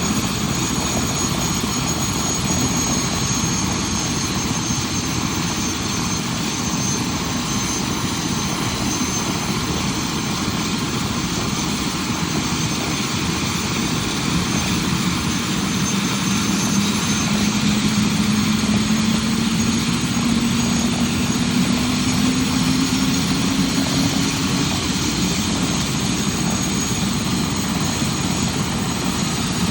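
UH-72 Lakota helicopter's twin turboshaft engines and rotor running, with a thin high turbine whine over a dense rushing noise. Around the middle, a low tone climbs steadily in pitch as the engine and rotor speed increase.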